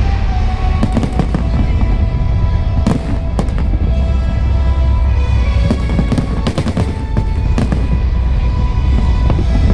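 Fireworks going off in an irregular string of bangs over a constant low rumble, with show music playing throughout.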